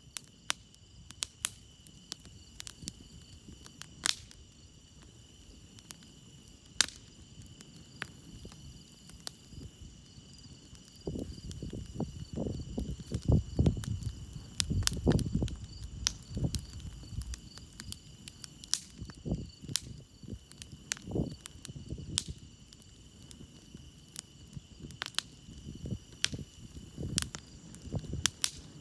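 Campfire crackling with sharp, scattered pops, over a steady chorus of chirping crickets. About eleven seconds in, a louder low rumble rises for several seconds and then eases off.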